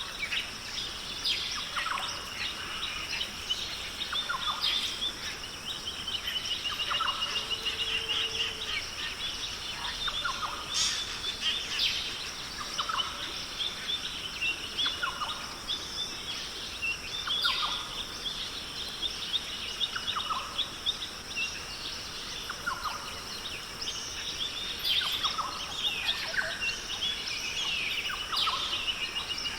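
Rainforest bird chorus: many birds calling at once, with rapid trills and short notes that repeat every couple of seconds, over a steady high-pitched hum.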